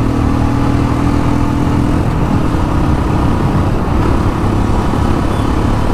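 Royal Enfield Classic 350's single-cylinder engine pulling hard through its stock exhaust. The steady engine note changes about two seconds in.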